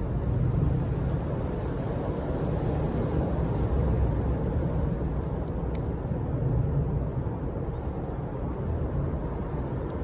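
Bonfire burning: a steady low rushing noise with a few faint crackles.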